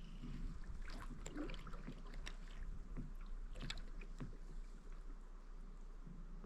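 Kayak paddle strokes: irregular dips and splashes of the paddle blades in the water, with drips in between.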